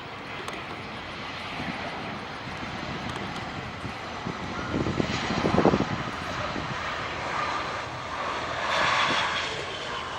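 Airbus A319-132 jet airliner landing, with the steady roar of its IAE V2500 engines. The roar swells to a loud rumble about five seconds in, and swells again near the end.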